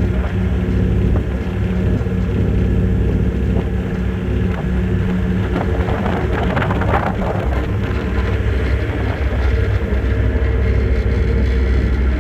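A ferry's engines droning with a steady low hum under a broad rushing noise of wind and water. The rush swells briefly about halfway through.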